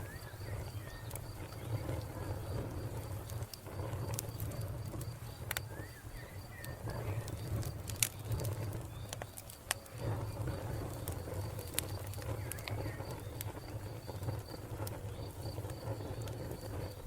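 Wood fire crackling, with scattered sharp pops over a low steady rumble. A cricket chirps in a steady pulsing rhythm behind it, and a bird chirps briefly a few times.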